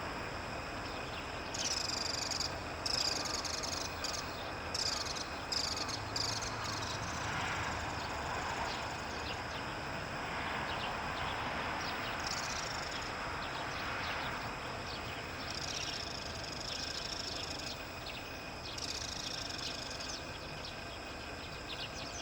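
High-pitched bird calls over a steady outdoor background hiss: a quick run of short calls over the first several seconds, then single drawn-out calls every few seconds.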